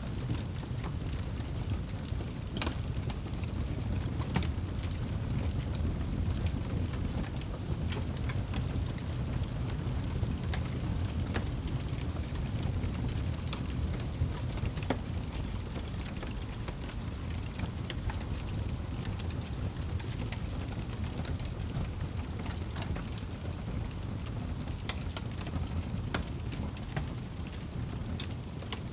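Wood fire burning in a fireplace: a steady low rumble of the flames, with sharp crackles and pops scattered irregularly through it.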